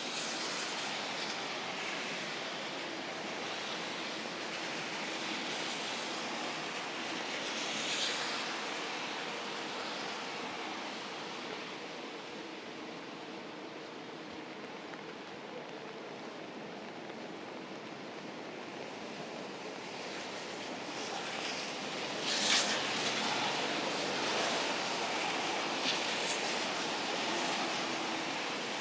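Steady rain falling, a continuous even hiss, with a few brief louder moments about eight seconds in and again after about twenty-two seconds.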